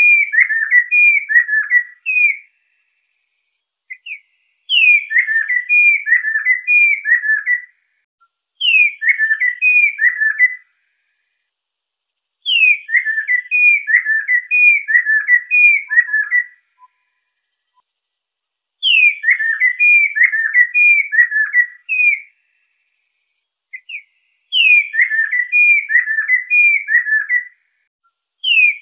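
Lesser necklaced laughingthrush singing: a high downslurred whistle followed by four or five looping, rolling notes, the phrase repeated about six times with short pauses between.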